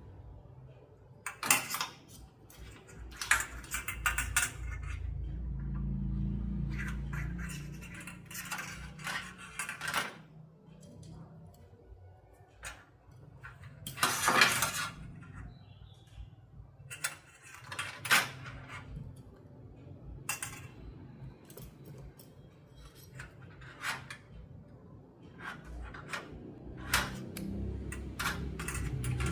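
Small metal parts and hand tools clinking and knocking as they are handled, in irregular bursts, with a low hum for a few seconds about a fifth of the way in.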